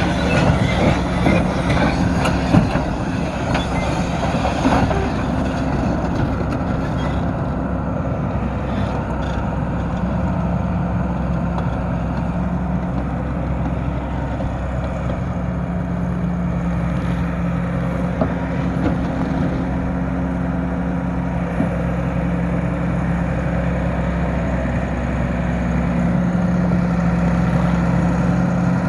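Volvo EC230B tracked excavator's diesel engine running steadily, with metallic clanks and knocks over the first few seconds as the machine moves.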